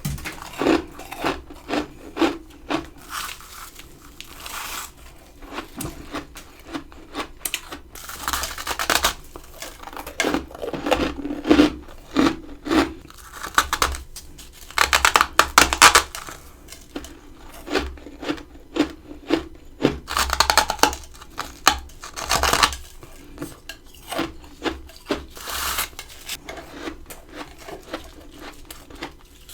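Close-up bites and chewing of frozen freezer frost: a continuous run of crisp crunches, each bite a short burst, loudest around the middle.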